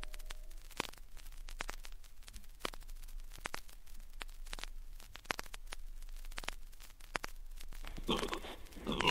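Vinyl record surface noise between tracks: scattered crackles and pops over a faint hum. About eight seconds in, pigs start grunting.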